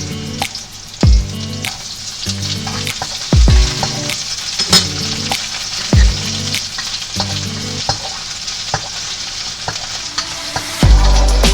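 Food sizzling and crackling in a hot pan as it is stirred, under background music with a low beat every couple of seconds; the music gets louder near the end.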